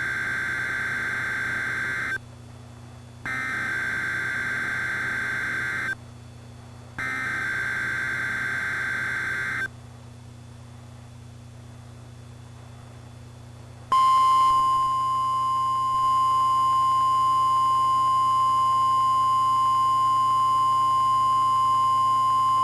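NOAA Weather Radio emergency alert: three screeching bursts of SAME digital header data, each about two and a half seconds long, then after a pause a single steady warning-alarm tone starts about 14 seconds in and holds. The alert signals an Extreme Wind Warning from the National Weather Service.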